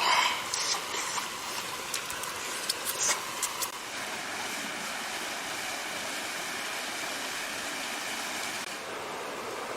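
Steady rush of running stream water, with a few short knocks or splashes in the first few seconds.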